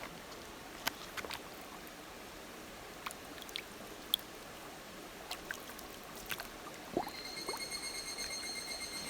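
Steady rush of a river, with scattered small sharp clicks. About seven and a half seconds in, a high pulsing tone starts and keeps going.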